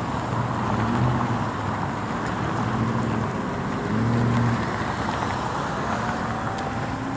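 Road traffic: cars driving past on a street, a steady rush of engine and tyre noise with a low engine hum that swells and fades every second or so.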